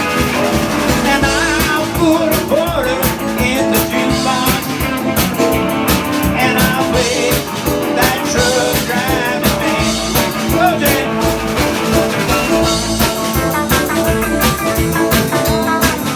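Live band playing an up-tempo country-rock song, with electric guitar, drums and singing.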